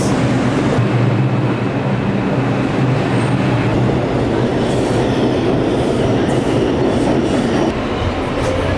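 New York City subway train running, heard from inside the car: a steady, loud noise of wheels on rails with a low hum underneath, easing slightly near the end.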